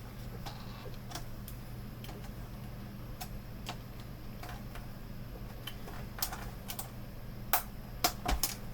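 Scattered light clicks and taps of a flathead screwdriver working at the plastic clips that hold the LCD monitor's frame, coming more often near the end, over a low steady hum.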